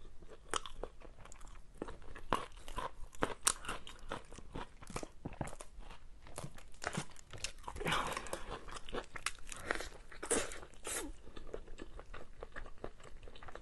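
Close-miked eating: wet chewing and crunching, with many short mouth clicks, picked up by lapel microphones just below the mouth. Around the middle there is a drink gulped from a bottle.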